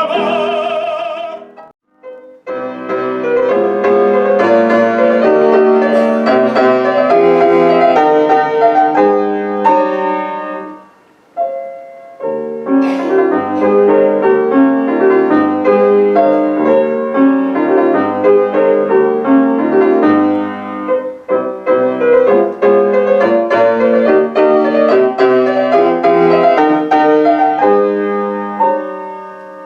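Piano playing a classical piece in two phrases, with a short break about eleven seconds in.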